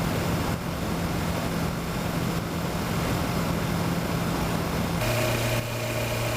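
Kawasaki Versys motorcycle engine running at a steady pace while riding, with wind noise on the helmet microphone. About five seconds in, the engine note drops to a lower pitch.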